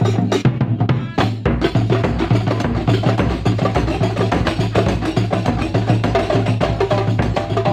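Kuntulan ensemble playing traditional percussion music: a fast, dense rhythm of sharp hand-drum strokes over a steady low drum, with a held melodic tone coming in over the second half.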